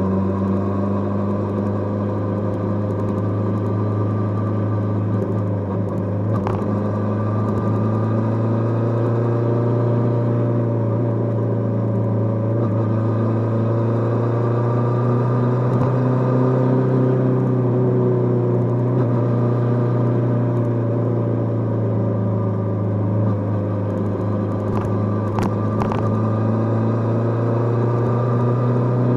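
Kawasaki GPz550's air-cooled inline-four engine running under way at steady moderate revs, its pitch drifting only gently up and down. A few brief clicks show through, once about six seconds in and a couple near the end.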